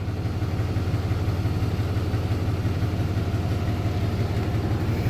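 Two-stroke jet ski engine running with a steady low drone.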